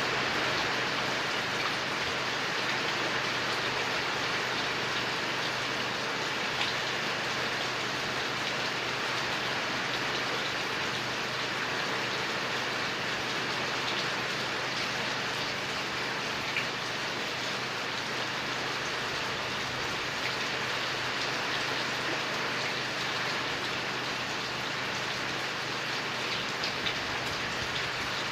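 Steady rainfall: an even hiss of rain with a few louder single drops standing out now and then.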